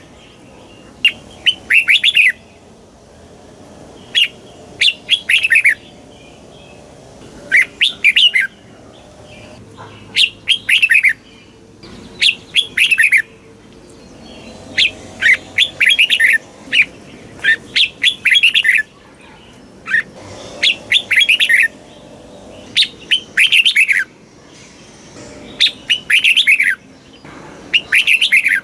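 Red-whiskered bulbul singing: short, quick phrases of bright whistled notes, often two phrases close together, repeated every second or two with quiet gaps between.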